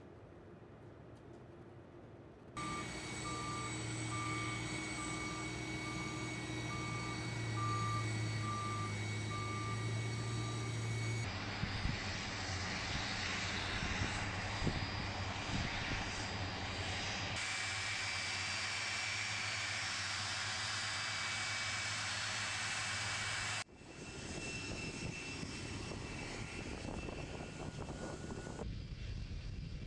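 Jet airliner engines running steadily, in several clips joined by abrupt cuts. In the first clip a beep repeats about once a second over the engine noise.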